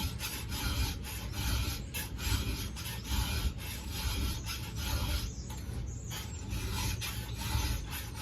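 Round chainsaw file, 7/32 inch, rasping across the cutters of a saw chain held in a vise: repeated hand strokes, each a short scraping rasp, with brief pauses between them.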